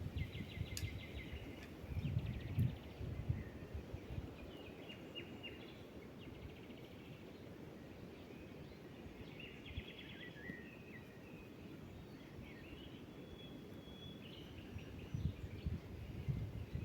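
Small birds chirping and trilling in woodland, on and off throughout. Low thumps or rustles come about two seconds in and again near the end.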